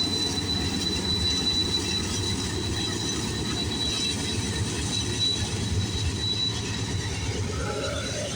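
Freight cars of a CN freight train rolling past at speed, a steady rumble of wheels on rail with a thin, steady high whine above it.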